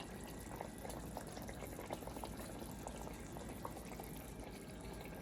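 Pot of gravy with potatoes and carrots simmering on medium heat, bubbling softly with a steady patter of small pops.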